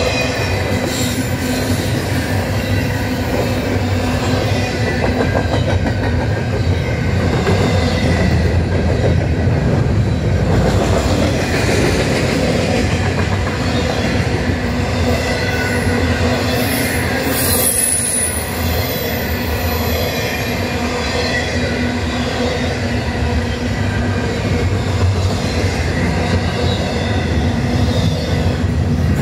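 CN double-stack intermodal freight train passing close by: a steady rumble of the well cars' wheels on the rails, with wheel squeal ringing through and brief high-pitched squeals a little past halfway.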